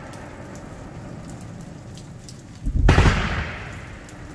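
Fireworks: a loud, deep boom of an aerial shell bursting about two and a half seconds in, rolling for about half a second before fading, over a steady hiss with faint crackles.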